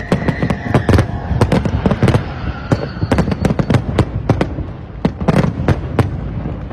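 New Year countdown fireworks exploding in quick, irregular succession, several sharp bangs a second. A faint high whistling tone fades out over the first two seconds.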